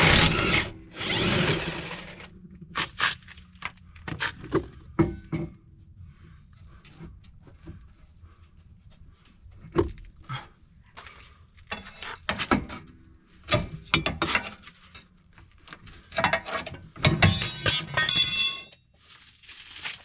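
Impact wrench (rattle gun) hammering in bursts, undoing the rear shock absorber's bolt, with scattered metallic knocks and clinks of tools and suspension parts being handled between bursts. Another long, dense rattling burst comes near the end.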